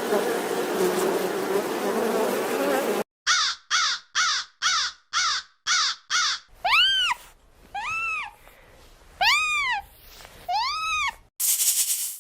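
An animal calling: first a run of eight short, harsh calls about two a second, then four longer calls that rise and fall in pitch. Before them, for about three seconds, there is a steady rushing noise. Near the end a loud hiss cuts in.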